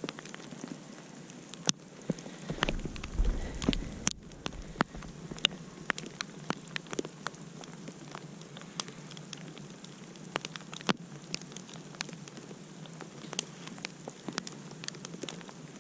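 Wood campfire crackling, with sharp irregular pops over a steady hiss. A brief low rumble comes about three seconds in.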